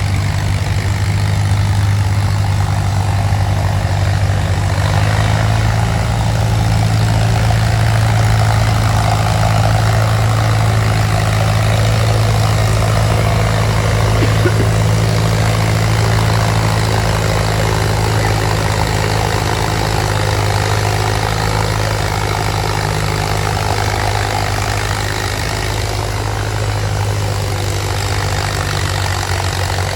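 Antique farm tractor engine running steadily for the whole stretch, its tone shifting only slightly.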